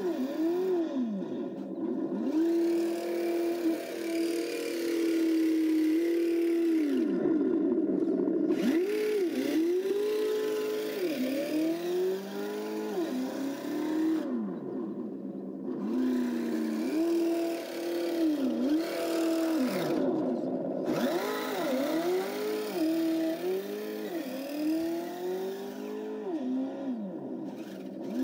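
Simulated engine sound from an ESS sound module in a Kyosho Blizzard DX RC snowcat, its pitch rising and falling over and over as the throttle is worked on and off. A higher hiss cuts out for a second or so several times.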